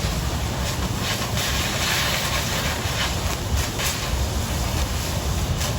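Oxy-fuel cutting torch with the cutting oxygen on, a steady hiss with a low rumble and light crackle as it burns through 1/4 inch steel plate.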